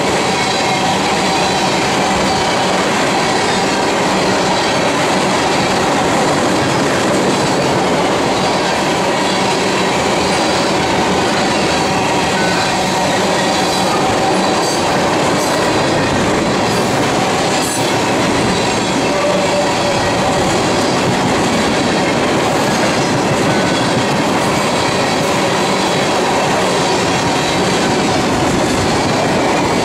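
Steel-wheeled tank cars of a Canadian Pacific freight train rolling past at close range: a steady, loud rumble of wheels on rail, with a thin wheel squeal running through it.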